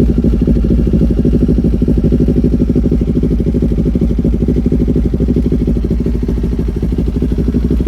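Kawasaki 399 cc parallel-twin motorcycle engine idling steadily, just brought to life with a portable jump starter after its battery was run flat by the ignition being left on.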